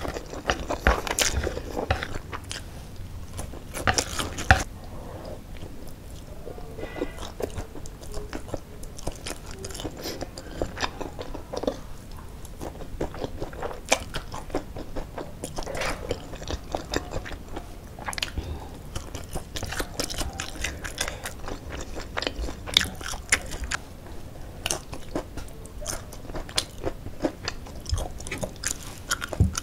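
Close-up chewing and slurping of spicy fried noodles, with many short, irregular wet mouth clicks.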